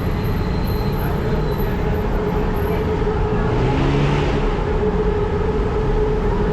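Busy city road traffic running steadily, with one vehicle passing close by about three and a half seconds in.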